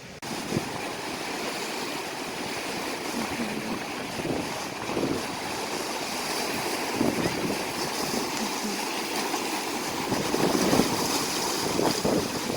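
Gusty wind blowing hard across the microphone: a steady rushing with irregular low buffeting thumps.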